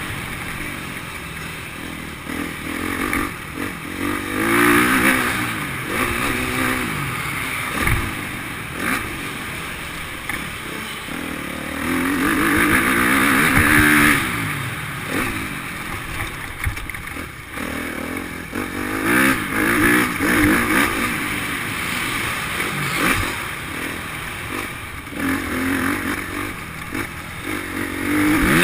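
Motocross dirt bikes riding laps on an indoor track. The engines rev up and drop off over and over, with louder passes about every six to eight seconds.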